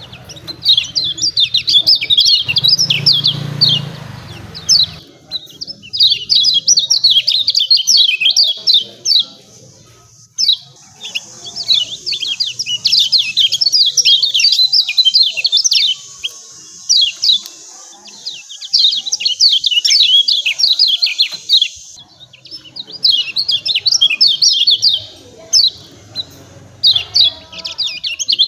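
Kecial kuning white-eye giving its rapid 'ciak ciak' chirping calls in quick runs of a few seconds with short breaks between them. A low hum sits under the calls in two stretches.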